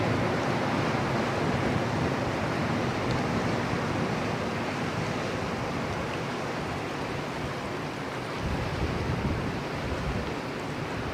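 Steady rushing noise of wind on the microphone and moving river water, easing slightly and then swelling again about eight seconds in.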